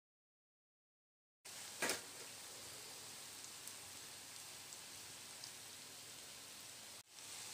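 Potato fries sizzling in hot ghee in a frying pan: a steady crackling hiss that starts about a second and a half in after dead silence, with a brief knock just after it starts.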